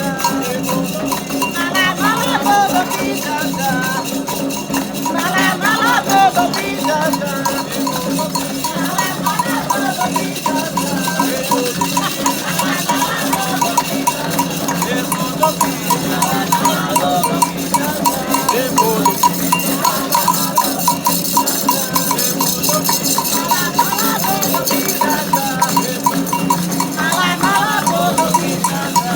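Candomblé ritual music: percussion with a metal bell and shaker rattles keeps up a fast, steady rhythm, and voices sing over it at times.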